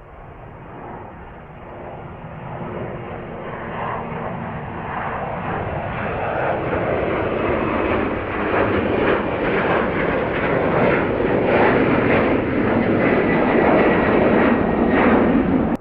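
Jet airliner on its takeoff run, the engine roar building steadily louder and crackling as it climbs past, then cutting off suddenly.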